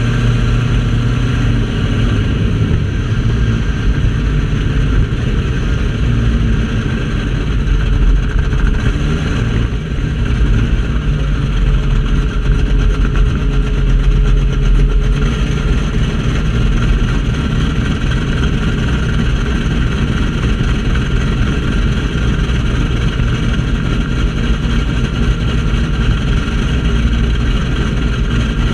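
Car engine idling steadily at close range, a deep, even idle with no revving.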